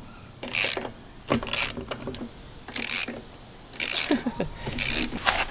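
Metal mechanism clicking and rattling in about eight short, irregular bursts, with a brief squeak about four seconds in.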